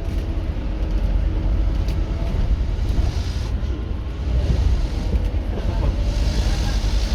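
Scania K230UB OmniLink bus's five-cylinder diesel engine running under load, a steady deep drone. Two short stretches of hiss come in about three seconds in and near the end.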